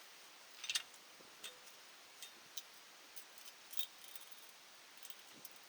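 A few light, irregular clicks and taps, the loudest under a second in, over a faint steady hiss.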